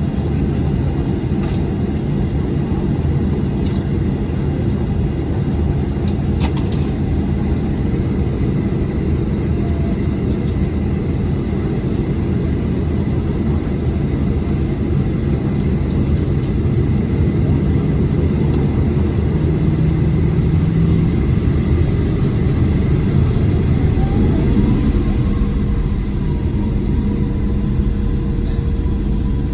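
Boeing 737-900ER's CFM56-7B jet engines running at taxi power, heard inside the cabin as a steady low rumble; near the end a whine rises and then holds, as the engines spool up.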